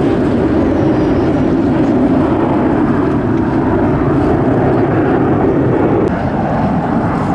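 Jet noise from Aermacchi MB-339 PAN aircraft flying past: a loud, steady rushing that drops a little about six seconds in.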